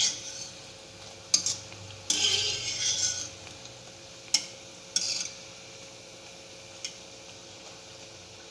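A metal spoon clinking and scraping against a pan of hot oil as small urad dal discs are turned over while frying: a few sharp clinks and two short scrapes, over a faint steady sizzle.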